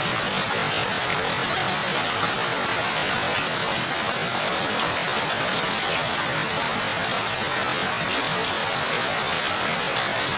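Heavy rain falling steadily onto a waterlogged dirt yard, splashing into standing puddles: an even, unbroken hiss of rain.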